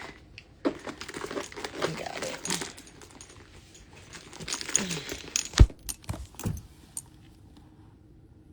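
Handling noise of belongings being gathered: rustling with light clicks and jingles, and one sharp knock about five and a half seconds in, then it goes quiet near the end.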